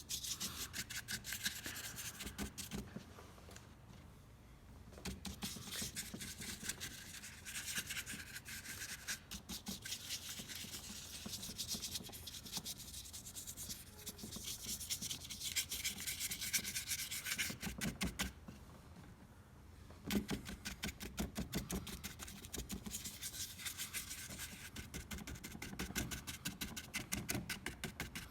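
Paintbrush dabbing and scrubbing acrylic paint onto hardened spray foam: runs of rapid scratchy strokes, with two short pauses.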